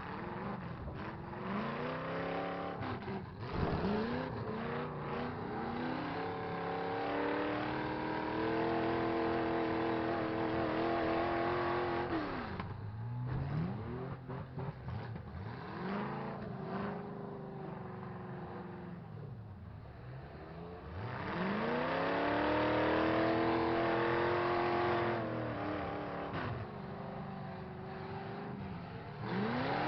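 Demolition derby truck engines revving hard again and again, each rev climbing in pitch, sometimes held high for several seconds, then dropping away, over a steady rumble of other running engines.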